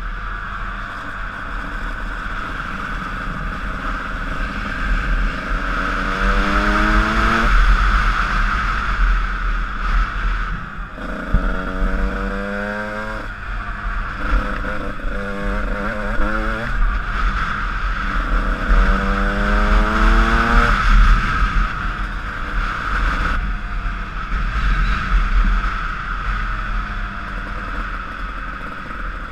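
Honda CR125 two-stroke motocross bike being ridden. The single-cylinder engine revs up in rising pitch sweeps, three clear times, between steadier running, with a constant low rumble underneath.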